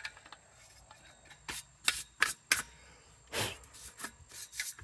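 Sheet-metal parts of a kerosene heater being handled, giving a string of separate clicks and light knocks, with a quick cluster of them near the end.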